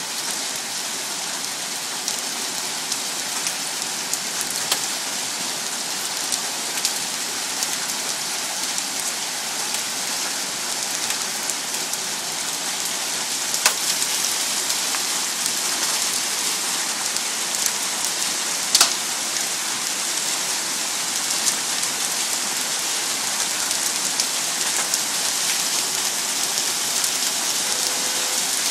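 Hail falling hard: a dense, steady rattle of hailstones and rain on hard surfaces, peppered with sharp individual impacts, with two louder single hits around the middle.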